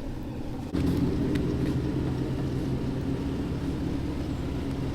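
Chevrolet Camaro engine running steadily at a low, even pitch, stepping up in level less than a second in and then holding.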